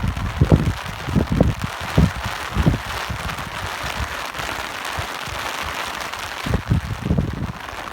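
Steady rain hissing, with irregular gusts of wind rumbling on the microphone that come strongest in the first few seconds and again near the end, and ease off in between.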